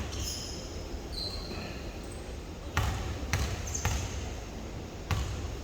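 Basketball dribbled on a hardwood gym floor: three bounces about half a second apart past the middle, then one more near the end, with short high sneaker squeaks on the court earlier on.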